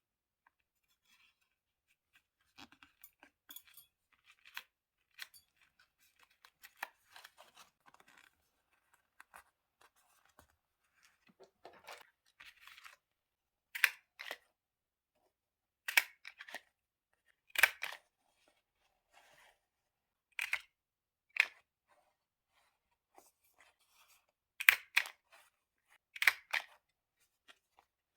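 Paper being handled for diary decorating: light rustling and tapping, then a string of sharp, crisp paper sounds in the second half, the loudest about seven separate strokes a second or two apart.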